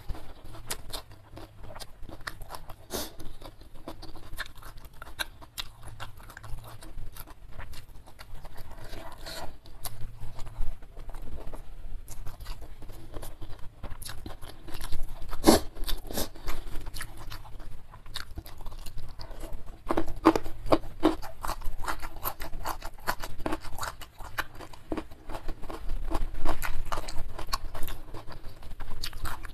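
A person chewing and crunching food by mouth, in irregular clusters of short crunches and wet clicks.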